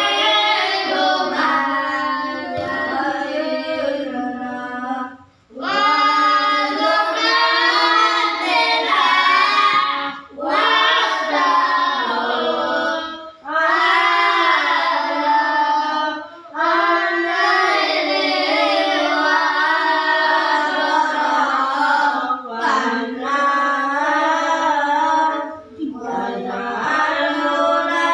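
A group of children chanting a closing prayer together in a sung melody. The prayer comes in phrases of a few seconds, with short breaks for breath between them.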